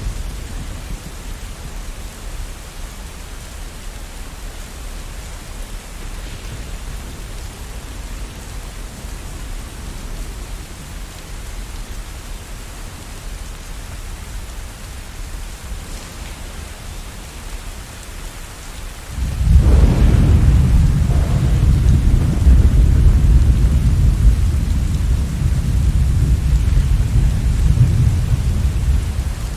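Steady rain falling, with a loud, deep roll of thunder that starts suddenly about two-thirds of the way through, rumbles for about ten seconds and cuts off near the end.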